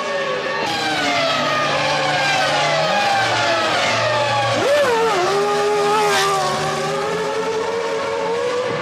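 Formula One cars' 3.0-litre V10 engines at high revs, their pitch mostly falling as they come off the throttle and shift down. About five seconds in, the pitch drops sharply and picks up again.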